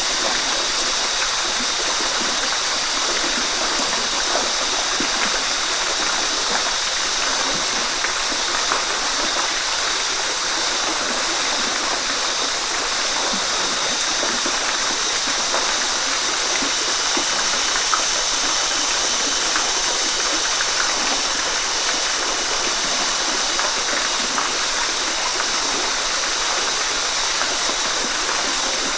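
Waterfall: a steady, unbroken rush of falling water, with small splashes and gurgles flickering through it.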